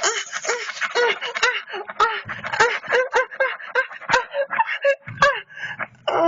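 A woman's voice moaning and gasping in a fast run of short, high-pitched cries, several a second.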